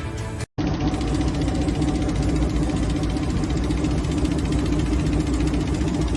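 A vehicle engine running steadily. It starts abruptly about half a second in, just after a moment of background music.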